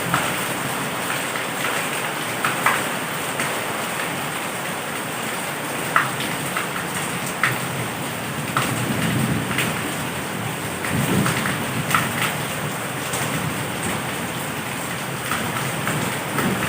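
Steady heavy rain, with sharp individual drops smacking a nearby surface every second or two. Low rumbles of thunder swell twice around the middle.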